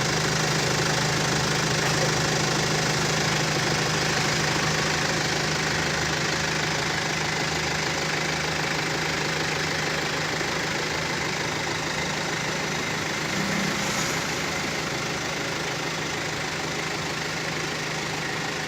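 BMW car engine idling steadily, running on while a carbon-cleaning device decarbonises it.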